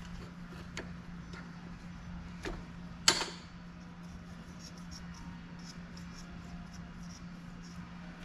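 Small parts being handled and set down on a workbench while being greased: a few light clicks, then one sharp knock about three seconds in, over a steady low hum.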